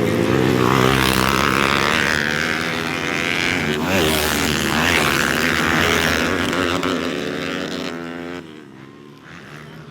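Several trail motorcycles racing past, their engines revving up and down through the gears. The engine sound drops away about eight and a half seconds in, then starts to build again.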